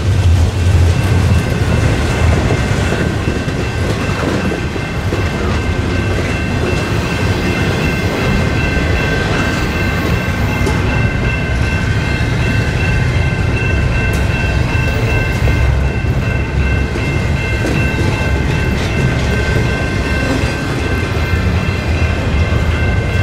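Double-stack intermodal container train on well cars rolling past close by: a steady, loud rumble of wheels on rail, with a steady high whine running over it.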